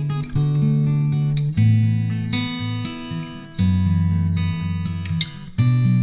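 Background music: acoustic guitar strumming chords, with the chord changing every second or two.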